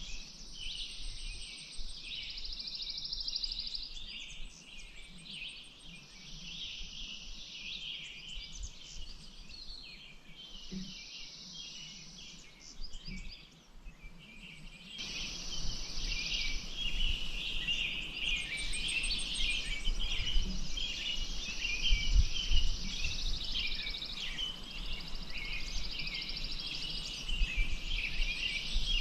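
Many birds chirping and singing at once, with long high trills, over a faint steady hiss. The chorus grows louder about halfway through.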